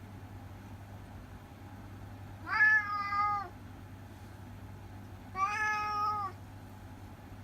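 Orange tabby cat meowing twice, two drawn-out meows about three seconds apart, each close to a second long.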